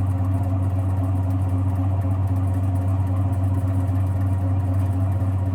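Electric eight-frame honey extractor running, a steady motor hum as the frames spin and centrifugal force throws the honey out of the uncapped comb.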